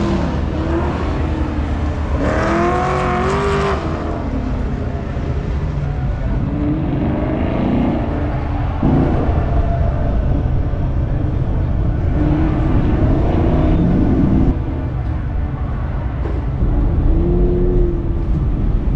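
Chevrolet Camaro engine revving up and falling back again and again as the car is driven hard around an autocross course, its pitch rising and dropping repeatedly over a steady low rumble.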